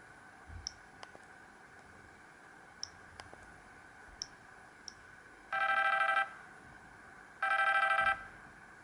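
Samsung GT-C3222W mobile phone playing a built-in ringtone through its small speaker: two short trilling rings like an old telephone bell, each under a second long and about a second apart, in the second half. Before them come a few faint clicks.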